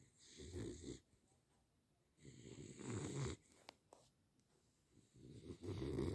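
A sleeping dog snoring: three snores, each about a second long, roughly two and a half seconds apart.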